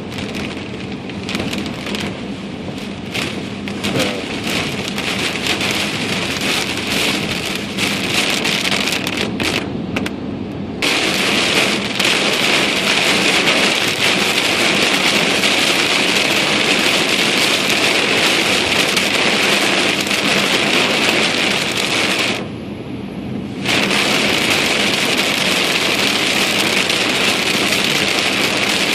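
Heavy rain pounding on a car's roof and windshield, heard from inside the cabin. It starts as patchy drops and gusts, then a little over a third of the way in turns into a denser, louder downpour. It dips briefly for about a second roughly three-quarters of the way through.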